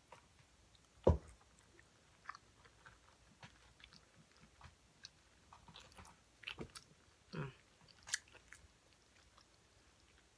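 A person biting and chewing crispy fried whiting fish, with small crunches and mouth sounds close to the microphone. A single loud low thump comes about a second in.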